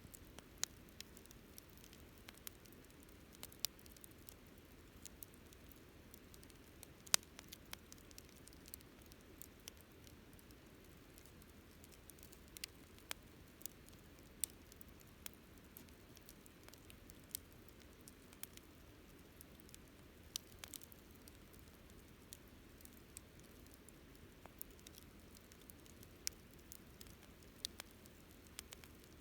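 Wood campfire crackling: scattered, irregular sharp pops and snaps over a faint low hiss, with one louder snap about seven seconds in.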